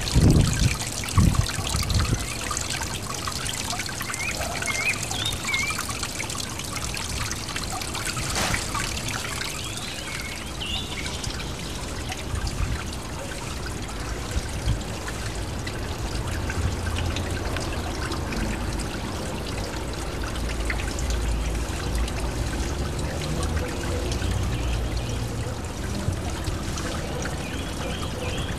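Small garden pond waterfall, water trickling and pouring steadily into the pond. A few low thumps in the first two seconds.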